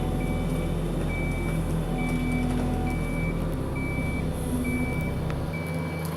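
Reversing alarm of a heavy work vehicle beeping steadily, about once a second, over the low running of its diesel engine.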